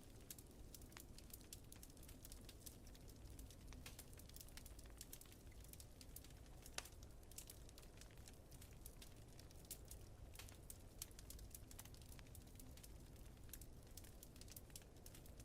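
Wood fire crackling quietly, a steady stream of small pops and snaps with one sharper pop about seven seconds in, over a low steady rumble.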